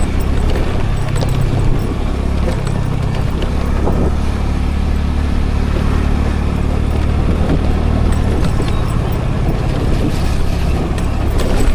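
Scooter engine running steadily under way, heard from a camera riding on the scooter, over a haze of road and wind noise. Its low note shifts a couple of times, about two and a half seconds in and again near the end.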